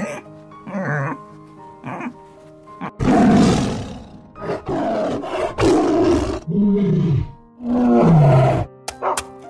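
A series of loud animal roars starting about three seconds in, some falling in pitch at their ends. Background music with steady tones plays throughout, and a few short animal calls come before the roars.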